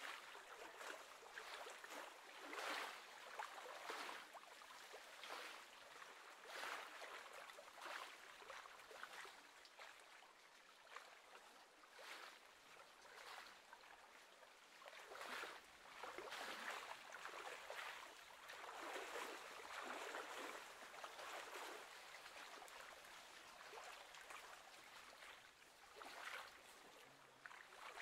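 Faint lapping of small waves on lake water, a soft wash of noise that swells and fades every second or two.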